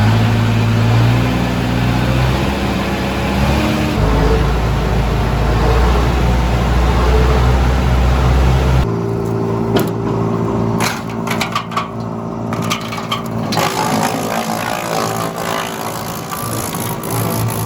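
Tractor-powered wood chipper running under a steady engine note. About halfway through the sound changes abruptly, followed by a run of sharp cracks and knocks as branches are chipped.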